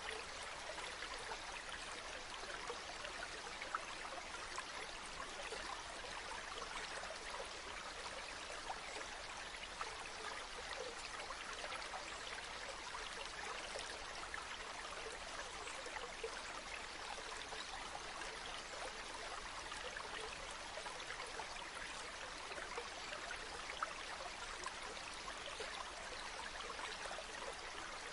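Running water flowing steadily from a small spring: an even rush dotted with many small splashes and trickles.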